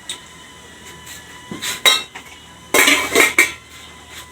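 Eating utensils clinking and scraping against a plate, a few sharp clatters in the middle as the eating begins.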